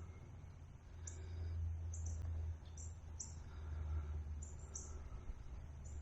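Small birds giving short, high chirps at irregular intervals, about once or twice a second, over a steady low rumble.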